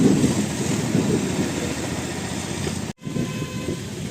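Moving express train, a steady rumble of coach wheels running on the track. It cuts out for an instant about three seconds in.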